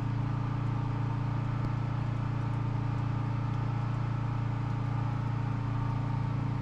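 Firman T07573 tri-fuel portable generator running steadily, giving a constant low hum.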